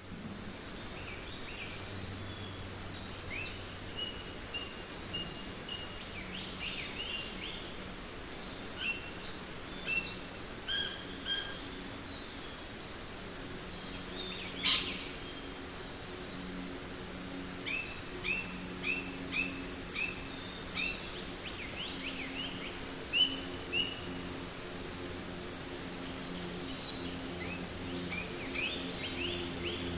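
Jungle ambience: many birds calling and chirping in short, repeated notes and trills over a steady background hiss. One sharp, loud call comes about halfway through.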